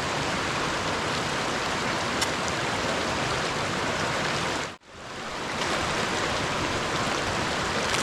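Mountain river rushing: a steady, dense wash of flowing water. It drops out sharply just before five seconds in and fades back up over about a second.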